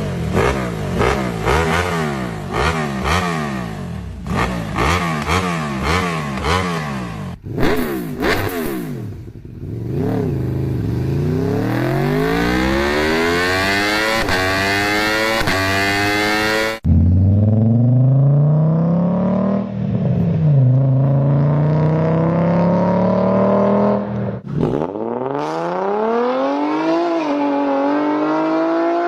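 A series of different V-engine vehicles, one after another. First come sharp, repeated revs, then long runs of the engine note climbing steadily in pitch under acceleration, with abrupt cuts between engines.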